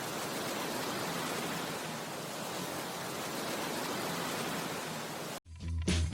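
Steady, even hiss like static, with no rhythm or pitch. It cuts off suddenly about five and a half seconds in, and music with a heavy beat starts.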